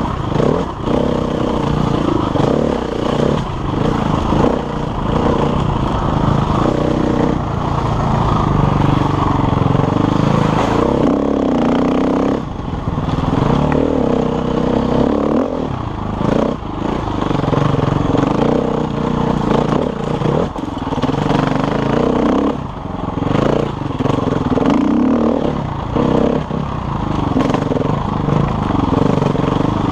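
KTM enduro dirt bike engine revving up and down continually as it is ridden over rough single-track trail, with frequent rattles and knocks from the bike.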